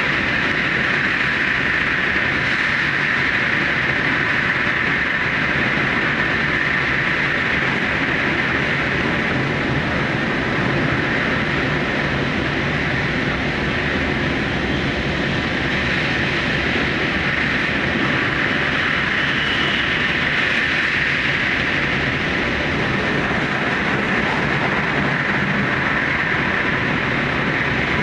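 Steady running noise of an electric express train travelling through a long rail tunnel, heard from the front of the train; it stays even throughout with no horn or sudden sounds.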